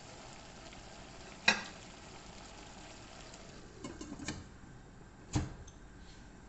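A utensil knocking and scraping in a pan of frying food, over a faint sizzle: one sharp knock about a second and a half in, a few lighter taps and scrapes a little past the middle, and another knock near the end.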